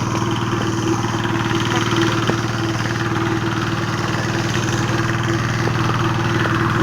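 A motor running steadily up close: a constant, even hum with a steady tone.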